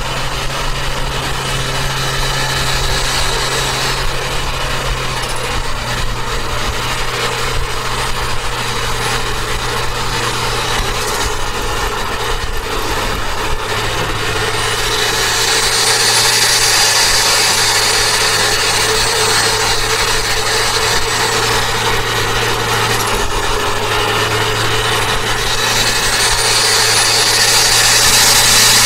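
Turbocharged Toyota Avanza driving at speed, its engine running under a steady wash of road and wind noise. Twice, about halfway through and again near the end, the sound swells and a high whine rises and falls, the turbo spooling as the car accelerates.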